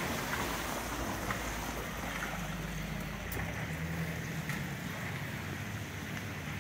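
Steady rain falling on wet streets, an even hiss, with a low rumble of wind on the microphone. The tyre hiss of a passing car fades out at the start.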